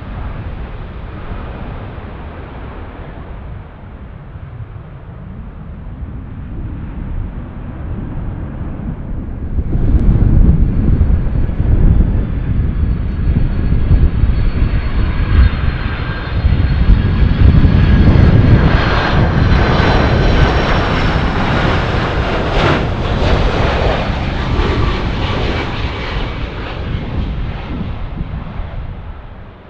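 Boeing 767 jet airliner passing low, its engine noise swelling sharply about ten seconds in with a high whine over a deep rumble, loudest near the middle and then fading. Wind rumbles on the microphone before the jet arrives.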